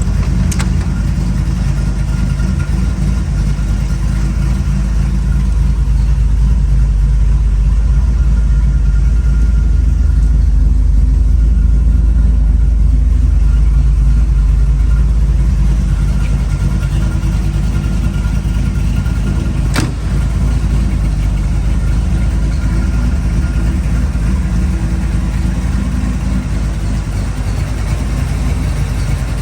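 1955 Chevrolet Bel Air's engine running steadily with a deep rumble that swells slightly a few seconds in and eases off later. There is a short click about half a second in and another about twenty seconds in.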